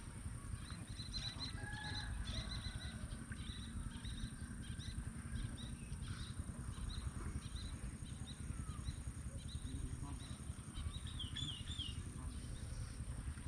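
Small birds chirping repeatedly, with a quick run of wavering notes about eleven seconds in, over a steady low rumble.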